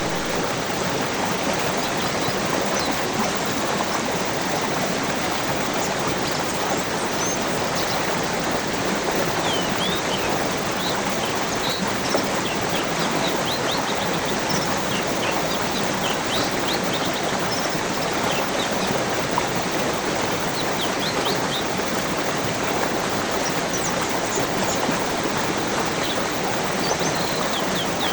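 A stream rushing steadily, with small birds chirping and trilling over it in scattered bursts.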